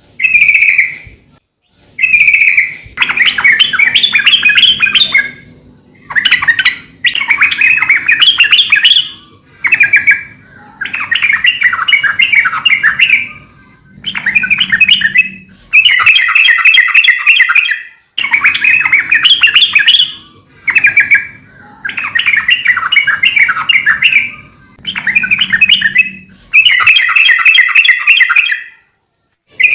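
Yellow-vented bulbul (trucukan) singing loudly in repeated phrases of fast chattering notes, each lasting one to three seconds with short pauses between. Short single notes come in some of the gaps.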